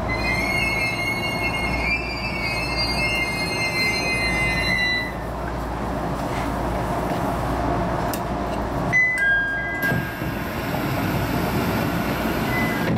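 JR East HB-E210 series hybrid train running, heard from inside: a steady rumble of wheels on track. Over it a high, wavering wheel squeal sounds for about five seconds and then stops, and a shorter squeal follows about nine seconds in.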